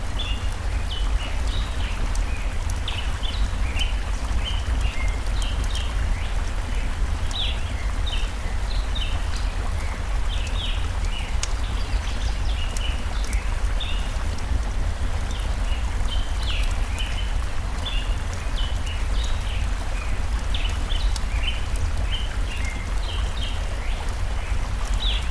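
Steady rushing of stream water with a deep low rumble, under constant twittering from many small birds in quick short chirps. Faint scattered crackles from a campfire come through now and then.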